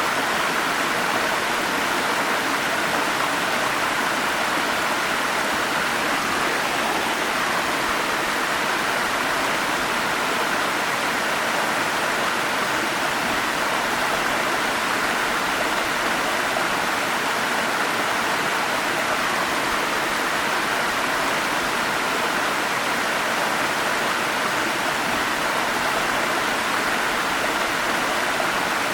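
Forest stream water rushing steadily over rocks: an even, unbroken splashing noise with no changes.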